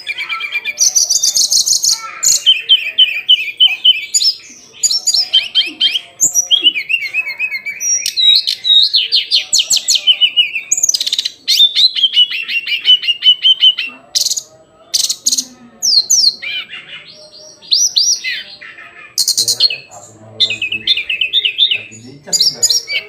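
Hill blue flycatcher singing: a long, varied run of rapid trills and high whistled phrases, broken by short pauses.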